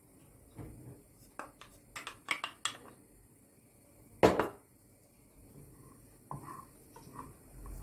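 Kitchen clatter of dishes and utensils: a quick run of sharp clicks and knocks, then one louder knock about four seconds in, and a few softer knocks near the end.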